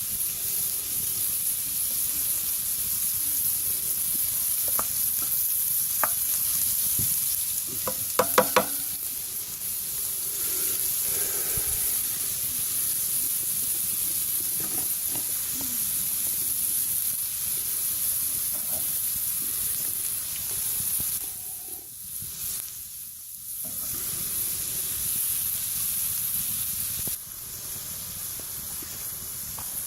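Food frying and sizzling in a pan over a campfire, stirred with a utensil that clicks against the pan, with a cluster of sharp clicks about eight seconds in. The sizzle dips briefly a little past the two-thirds mark, then carries on.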